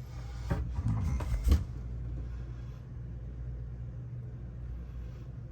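Steady low hum of the catamaran's air conditioning running, with a few sharp knocks in the first second and a half.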